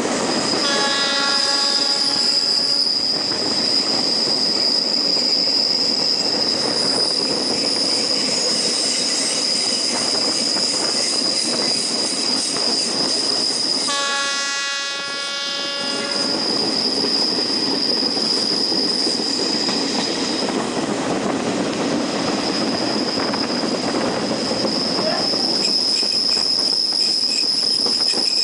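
Train heard from an open carriage window while running: a steady high wheel squeal over the rolling noise of the wheels on the rails. The horn sounds twice, once about a second in for a couple of seconds and again about halfway through.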